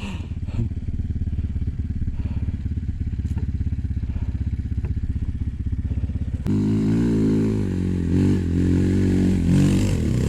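Motorcycle engine running steadily, then, after an abrupt change about two-thirds of the way in, running louder with its pitch rising and falling as the throttle is worked.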